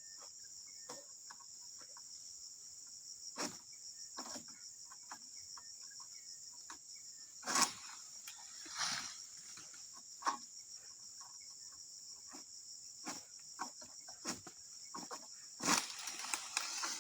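Steady, high insect chorus, with scattered knocks and rustling.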